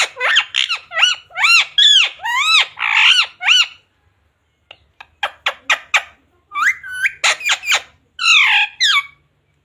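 Pet Indian ringneck parrot squawking and chirping. It gives a quick run of rising-and-falling calls, pauses briefly about four seconds in, then makes a rapid string of short clicky notes and more calls that slide down in pitch.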